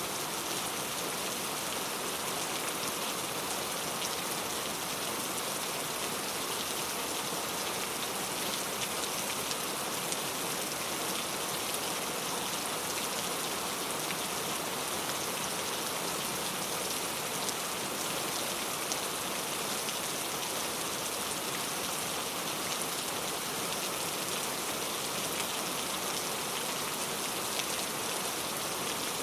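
Steady rain falling, a dense even hiss with fine patter of individual drops hitting a surface.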